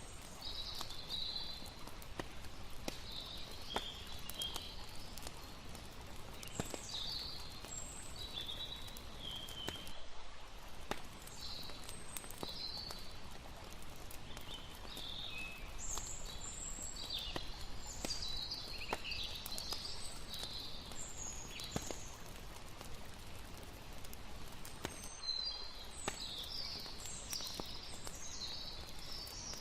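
Layered campfire and river ambience: a steady rush of water under frequent sharp pops and crackles of a wood fire, with short high chirping calls of night creatures scattered throughout. The sound thins briefly twice, about ten seconds in and again near twenty-five seconds.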